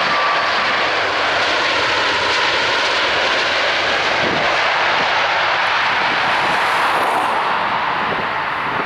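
Jet airliner's engines close by: loud, steady engine noise with a faint whining tone in it.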